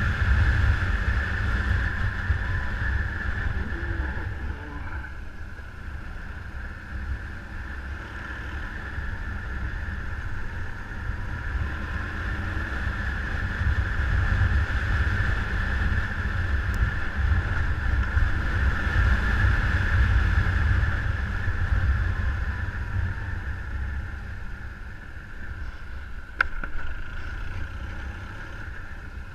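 Motorcycle on the move: the engine runs under heavy, gusting wind rumble on the microphone, the level swelling and easing, with a single sharp click near the end.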